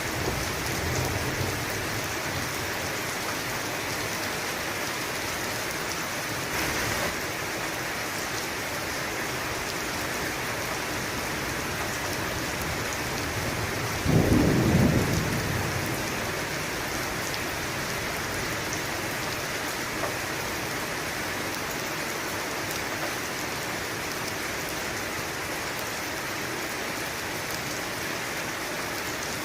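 Steady heavy rain hissing, with a clap of thunder about fourteen seconds in that rumbles and fades over a couple of seconds, and a lighter rumble at the start.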